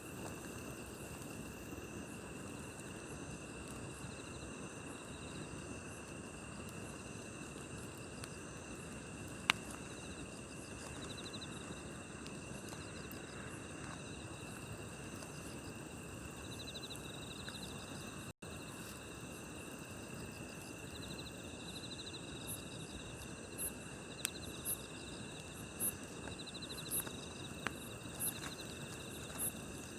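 Crickets and other night insects trilling steadily, with short high chirps coming more often in the last third, over the soft low hiss of a campfire. A single sharp crackle from the fire comes about nine and a half seconds in.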